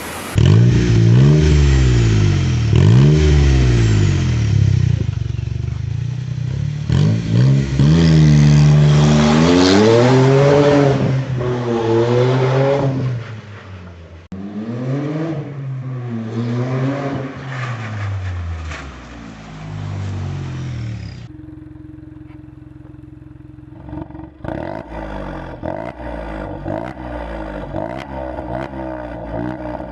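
Three-cylinder car engines being revved hard in a string of short clips, the pitch climbing and dropping on each blip of the throttle. About two-thirds of the way through it cuts to a quieter engine that runs steadily for a few seconds before more quick revs.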